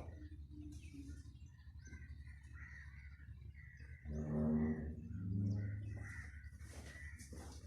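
Birds calling, with faint high chirps repeating throughout and two louder, low-pitched drawn-out calls about four and five seconds in.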